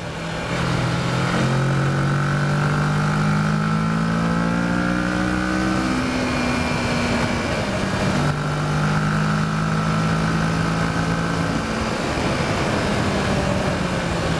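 Kawasaki Versys motorcycle engine accelerating between corners. Its pitch climbs, then drops back about six seconds in and again near twelve seconds as the throttle closes or a gear changes, over steady wind noise.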